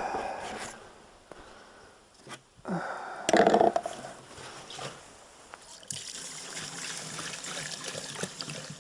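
Warm diesel fuel being poured and trickling into a container, with a short louder clatter about three seconds in and a steady trickle from about six seconds on.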